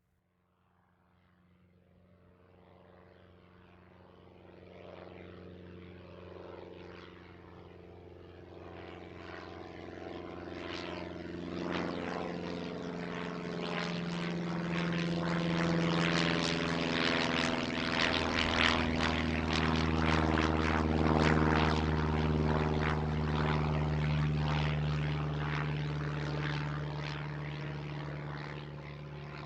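Propeller airplane engine running with a steady pitch. It fades in from silence, grows louder over the first half, is loudest about two-thirds of the way through, then eases slightly.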